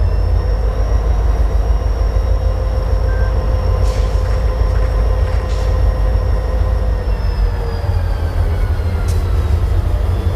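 A train passing close by: a loud, steady rumble of wheels and cars on the rails, with a thin high whine that sinks slightly in pitch after about seven seconds, and a few sharp clicks.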